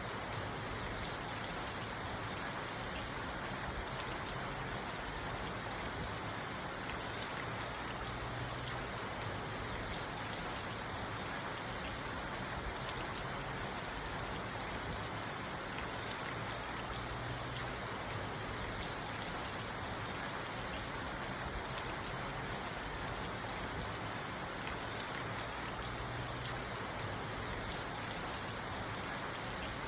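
Steady rain falling on a parked car, heard from inside the cabin: an even patter with scattered individual drop ticks, never letting up.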